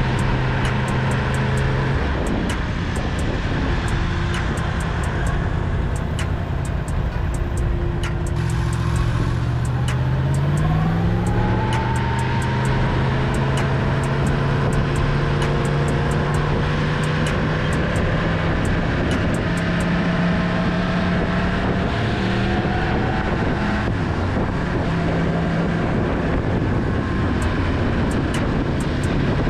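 Yamaha MT-10's crossplane inline-four engine and exhaust under way at moderate revs. The revs climb about nine seconds in, then hold fairly steady while cruising.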